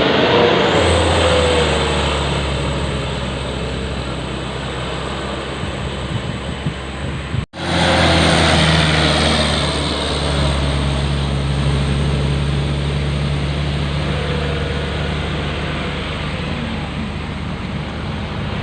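Heavy Hino dump truck's diesel engine running steadily under load, crawling uphill with a full sand load, with a low engine drone under road noise. The sound cuts out for an instant about seven and a half seconds in, then carries on.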